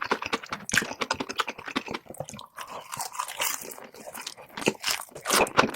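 Close-miked crunchy chewing and biting, sped up to double speed: a rapid run of crackling clicks that thins out briefly in the middle.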